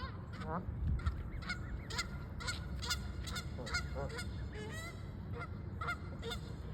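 Geese honking in a quick run of short calls, about two to three a second.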